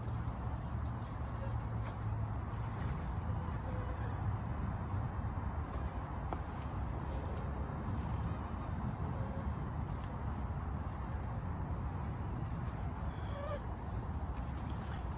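Insects, likely crickets, making a steady, unbroken high-pitched trill, over a low steady rumble.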